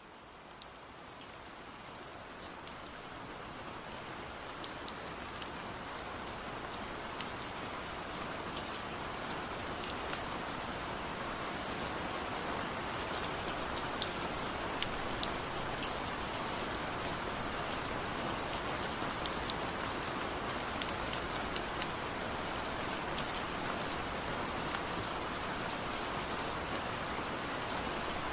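Steady rain falling, with many individual drops pattering and ticking on a surface. The rain fades in and grows louder over the first few seconds, then holds steady.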